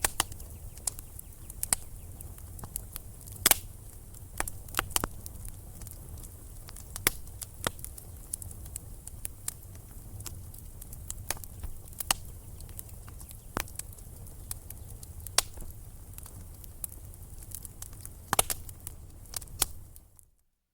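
Wood fire in a fireplace crackling, with irregular sharp pops and snaps over a steady low rumble of the flames; it cuts off suddenly near the end.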